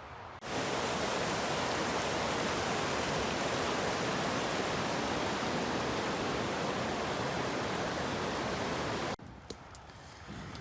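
Rushing water of a mountain stream or waterfall, a steady even rush that cuts in abruptly about half a second in and cuts off abruptly near the end.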